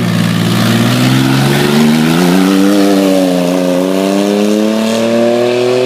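Off-road race truck's engine running hard at high revs, its pitch climbing steadily as it accelerates.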